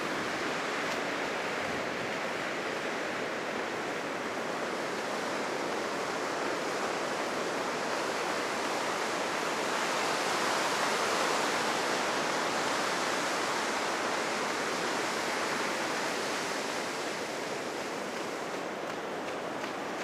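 Heavy surf on a sandy beach, the waves high after a typhoon: a steady rush of breaking and washing waves that swells a little about halfway through and eases near the end.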